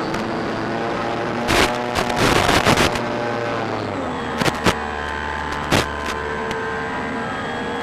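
Brushless electric motor and propeller of a Durafly Bf 109 E-4 RC model plane whining in flight, dropping in pitch about four seconds in as the throttle is eased. A burst of crackles in the first half and a few sharp pops later break through it.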